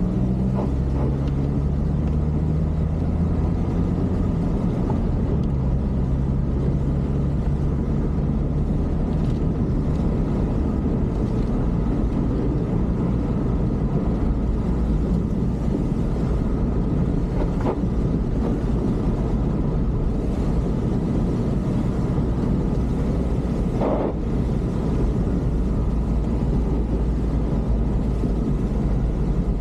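A motor vehicle's engine running steadily with continuous road noise, as heard while travelling; its pitch shifts in the first few seconds, then holds.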